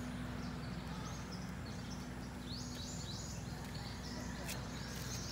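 Birds chirping outdoors: from about halfway in, a quick series of short, high chirps, about three a second, over a steady low hum.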